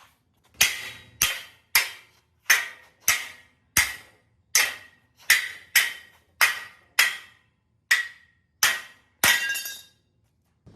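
A hammer striking metal fourteen times at an uneven pace of one to two blows a second, each blow ringing briefly.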